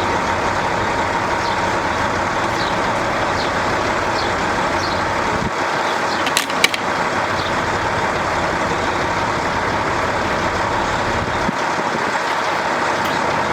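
Steady outdoor noise with a faint hum, and two sharp clicks about six and a half seconds in.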